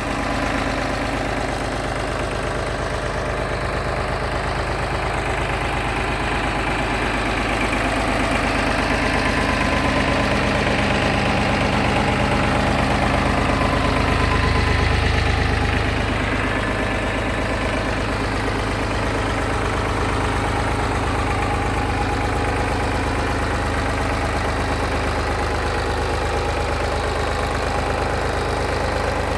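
Farmtrac tractor's diesel engine idling steadily, a little louder for a few seconds around the middle.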